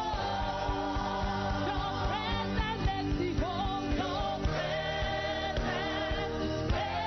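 Gospel music with singing over a steady beat.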